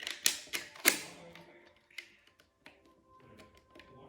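Plastic Lego plates clicking and tapping as they are handled and pressed together: three sharp clicks in the first second, then a few fainter taps.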